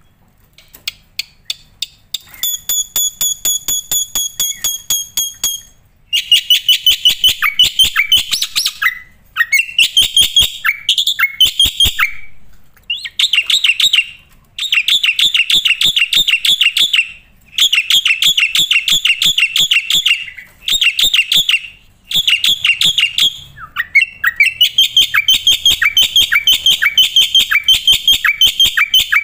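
Black-winged starling (jalak putih) singing. It starts with a run of rapid clicks and a held whistle, then from about six seconds in gives long phrases of fast chattering, broken by short pauses.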